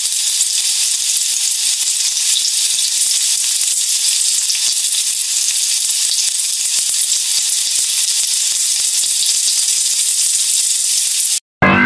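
Fried rice sizzling as it fries, a steady hiss with fine crackling, cutting off abruptly near the end.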